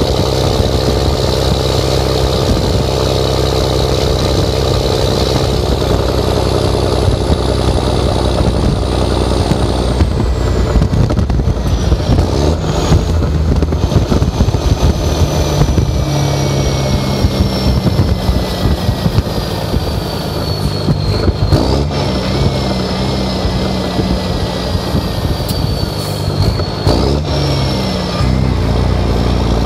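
Straight-piped 11.1 L Series 60 Detroit diesel in a truck pulling a loaded quad-axle dump trailer, running loud through the exhaust. The engine note and whine slide down and pick back up about three times as it works through the gears of its 13-speed.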